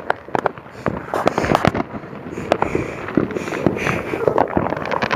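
Consumer fireworks going off: a dense, irregular run of sharp pops and crackles in quick succession.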